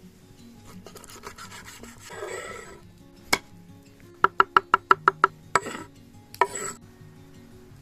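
A kitchen knife chopping on a cutting board: a quick run of about eight strokes a little past the middle, after a single knock, with rubbing and scraping as the food is handled, over soft acoustic guitar music.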